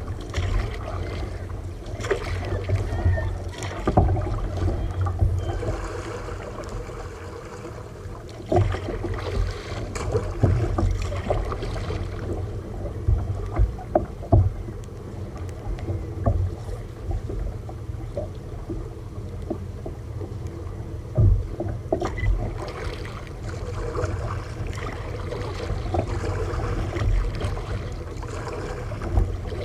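A kayak on a rough sea: wind rumbles on the microphone while water splashes and knocks against the hull at irregular moments.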